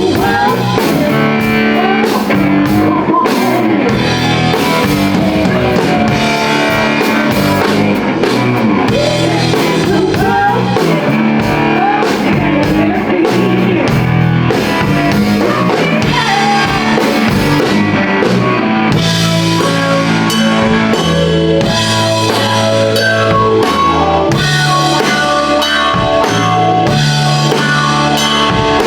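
A live blues-rock band playing: drum kit, electric guitar and bass guitar, with a steady, heavy bass line and bending melodic lines over it.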